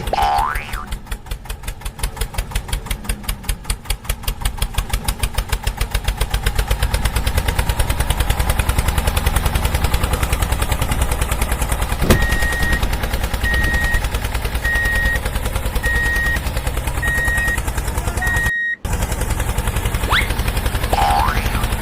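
An engine chugging, its beat quickening over the first several seconds into a fast steady run. About twelve seconds in, a repeated on-off beep joins it for several seconds.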